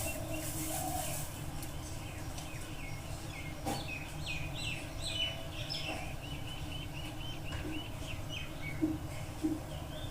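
Small birds chirping: scattered short calls, then a quick run of repeated notes a little past halfway, over a steady low background rumble.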